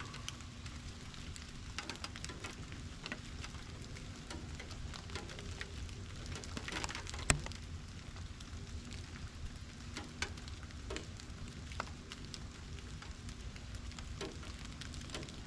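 Steady rain falling, with scattered individual drops pattering on surfaces and one sharper, louder drip about halfway through.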